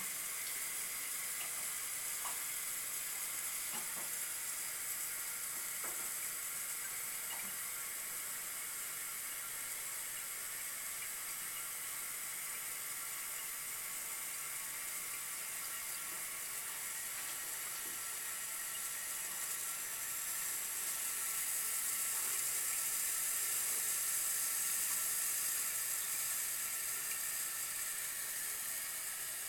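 Fluidmaster fill valve in a 1981 Eljer Emblem toilet tank hissing steadily as water runs through it while the tank slowly refills after a flush. The hiss swells a little about two-thirds of the way through.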